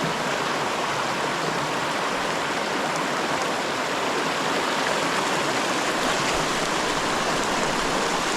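Creek water running steadily over a shallow riffle, an even rushing noise with no breaks.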